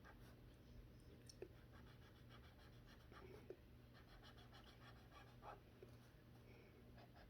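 Faint scratchy strokes of a dual brush pen colouring on paper, in quick repeated runs, over a low steady hum.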